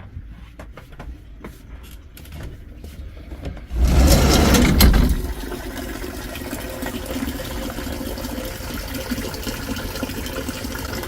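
Hailstorm: scattered hailstones ticking, then about four seconds in a loud low rush lasting a second and a half, followed by the steady hiss of heavy hail.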